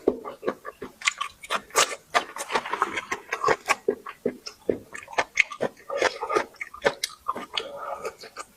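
Close-miked chewing: a rapid, irregular run of wet mouth clicks and smacks as food is eaten.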